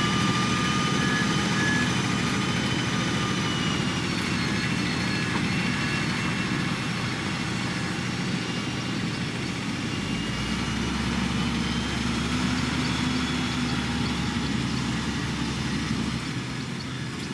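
Diesel engine of heavy road-building machinery running steadily, with thin high whining tones above the low drone.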